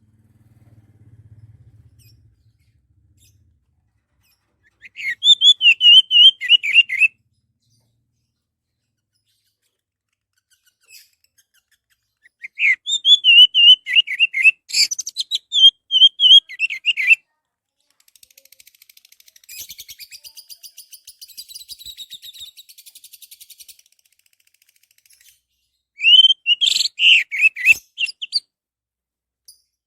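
Orange-headed thrush singing: three loud bursts of quick, varied whistled phrases, with a quieter buzzy, rasping chatter between the second and third.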